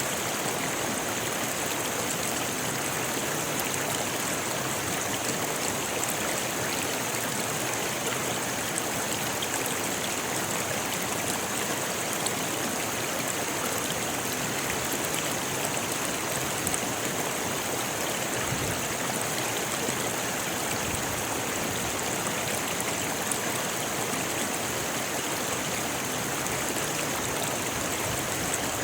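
Rocky river flowing over stones: a steady, unbroken rush of water.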